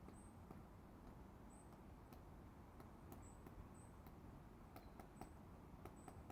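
Faint, irregular taps of a pileated woodpecker pecking and chipping at a tree, stripping bark to get at insects.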